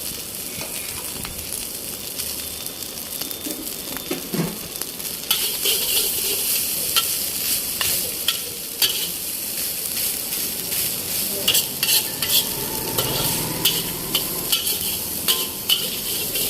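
Chicken fried rice sizzling in a hot pan while it is stirred with a metal spatula. From about five seconds in, the spatula clanks and scrapes against the pan many times over the steady sizzle.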